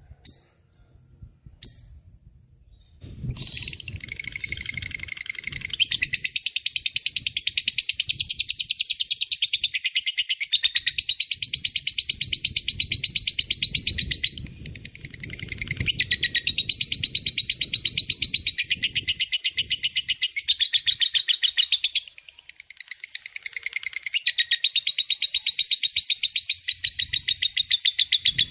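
Lovebird chattering in a long, very fast rattling trill (ngekek). A few short chirps come first, then the trill starts about three seconds in and runs on, with two brief breaks, about halfway and three-quarters through.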